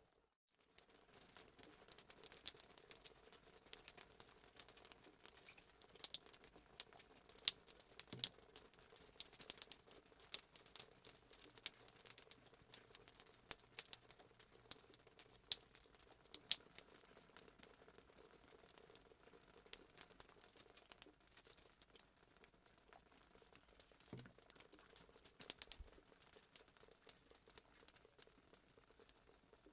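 Fireplace sound effect: a wood fire crackling faintly, with irregular sharp pops and snaps. It cuts out for a moment at the very start.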